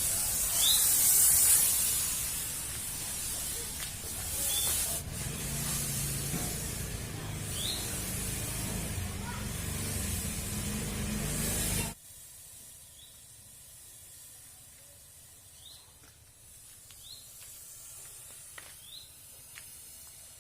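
Thermal fogging machine spraying, a loud steady hiss with a low drone under it. It cuts off suddenly about twelve seconds in, leaving a quieter background with short high chirps.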